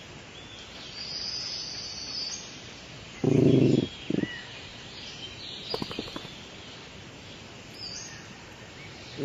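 Birds chirping in the background. About three seconds in, a short, low, voice-like sound stands out, with a brief second one just after. A few sharp clicks come a little before the six-second mark.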